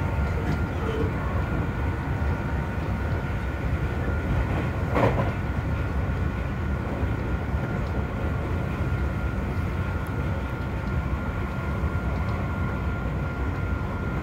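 Interior running noise of a Seibu 40000 series electric train at speed: a steady rumble of wheels on rail with a steady high whine, from a train driven by a Toshiba IGBT-VVVF inverter and permanent-magnet synchronous motors. A brief louder rush comes about five seconds in.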